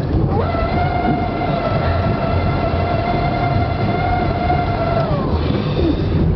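One long, steady horn blast lasting about five seconds, dipping slightly in pitch as it cuts off, over a continuous low rumble of motor and wind.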